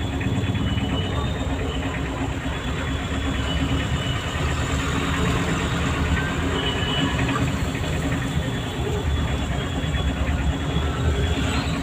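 Car engine running and road noise while driving, a steady low rumble.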